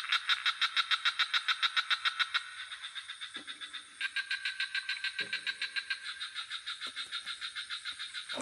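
Night swamp chorus of frogs and insects: rapid pulsing calls of about ten pulses a second over a steady high insect drone. Three short deep frog croaks come in the middle and near the end.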